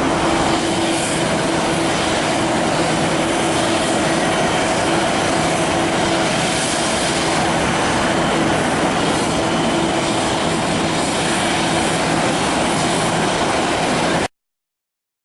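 Airbus A330 airliner's jet engines running steadily at low power, a constant roar with a faint hum that fades out about two thirds of the way through; the sound cuts off abruptly near the end.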